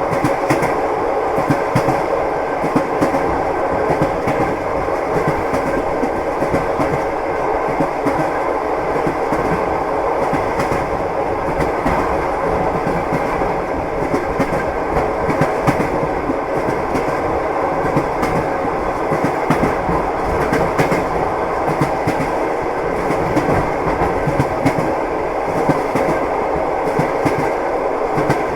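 Train wheels clattering on the rails while the train runs at a steady speed: a continuous running noise with frequent short clicks of the wheels over the rail joints.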